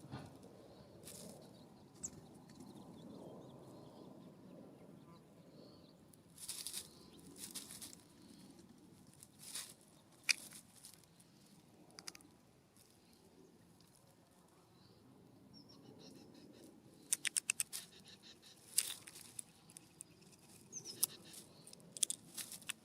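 Small birds' wings flapping in short bursts as they come and go at a ground feeder, with a quick run of sharp clicks partway through.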